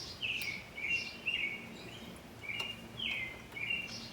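Small birds chirping: strings of short, quick chirps, a few a second, in two runs with a brief pause in between.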